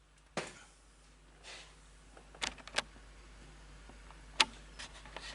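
A few scattered short clicks and knocks, the loudest about four and a half seconds in, over a faint steady low hum.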